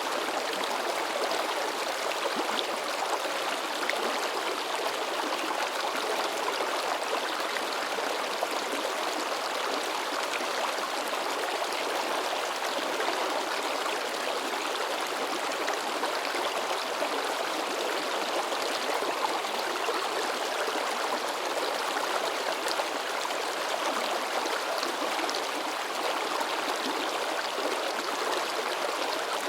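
Shallow river babbling and splashing over rocks: a steady, unbroken rush of water.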